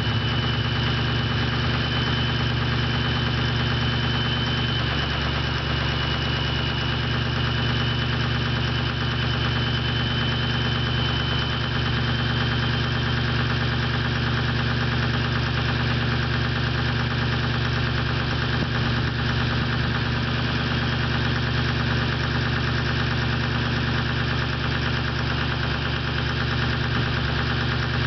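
Ford 6.0 PowerStroke turbo-diesel V8 idling steadily through an open straight-pipe exhaust while warming up after a cold start, with a diesel knock and a faint high whine that fades about halfway through. One cylinder runs a little uneven, which the owner believes is a worn exhaust lobe on the cam.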